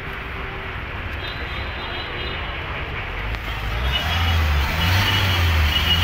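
Jaguar XF car engine running, heard with the bonnet open; the low rumble gets clearly louder about four seconds in.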